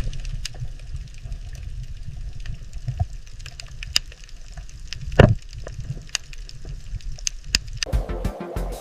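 Low rumble with scattered crackling clicks, one louder crack about five seconds in; music begins near the end.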